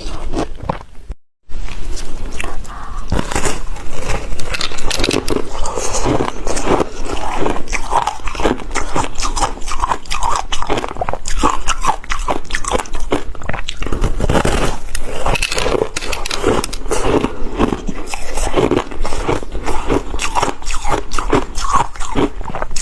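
Close-miked biting and chewing of ice with passion fruit: dense, loud crunching and cracking that goes on throughout, broken by a brief silence about a second in.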